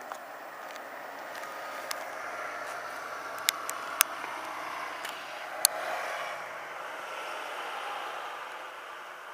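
A road vehicle, most likely a bus, passing: its noise swells to a peak mid-way and then fades. A few sharp cracks sound in the middle.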